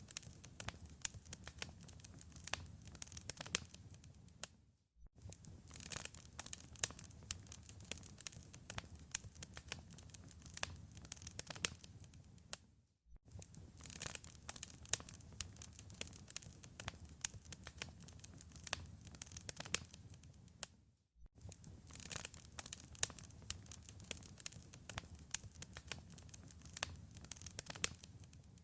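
Wood fire in a fireplace crackling: a dense run of sharp pops and snaps over a low rumble of flames. It cuts out briefly three times, about every eight seconds.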